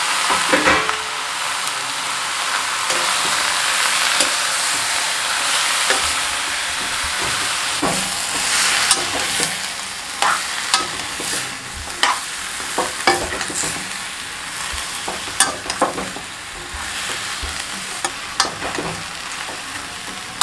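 Marinated chicken with onion and tomato sizzling in a hot kadai that was heated dry, the meat frying in its own juices. From about six seconds in, a metal spatula scrapes and clinks against the pan as the chicken is stirred.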